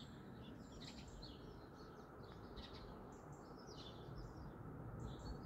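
Faint birds chirping, many short high calls scattered throughout, over a low steady outdoor background hum.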